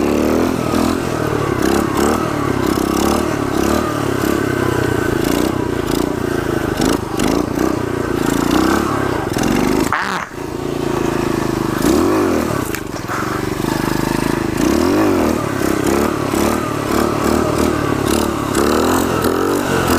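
Pitster pit bike's single-cylinder four-stroke engine running as it is ridden, the revs rising and falling over and over, with a brief drop in the sound about halfway through.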